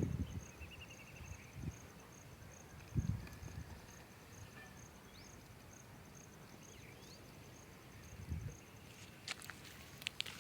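An insect chirping steadily in a high-pitched pulse, about four pulses a second, until near the end. A few dull low thumps break in, and a run of sharp clicks comes near the end.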